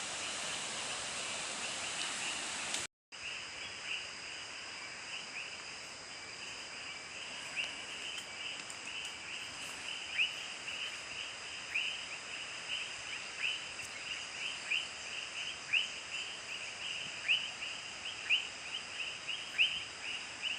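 Forest ambience: a steady high insect drone, with a short descending chirp call repeated about once or twice a second that grows louder toward the end. The sound cuts out briefly about three seconds in.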